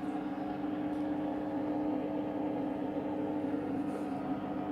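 Candy washing machine's drain pump humming steadily as it pumps out the pre-wash water.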